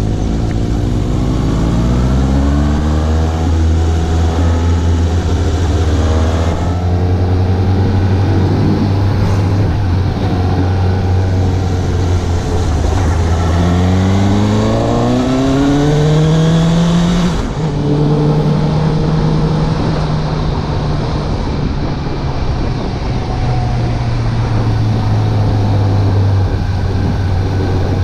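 Suzuki GSX750 motorcycle's inline-four engine under way: it pulls up in pitch twice, the second time with a sudden drop about two-thirds of the way in as it shifts up, then runs steady at a lower pitch.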